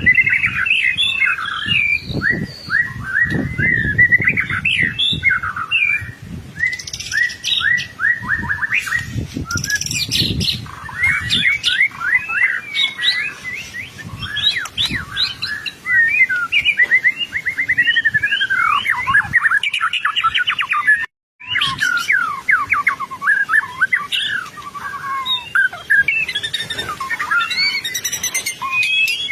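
White-rumped shama singing nonstop: a fast, varied run of loud whistled phrases, rapid trills and chattering sweeps. The song drops out for a split second about 21 seconds in.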